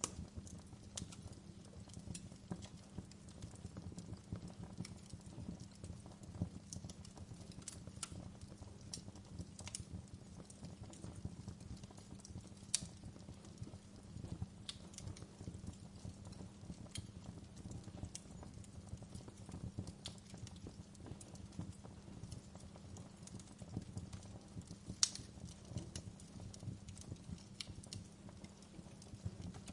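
Wood fire burning: a steady low rumble of flames under scattered crackles and snaps, with two louder pops, one about halfway through and one near the end.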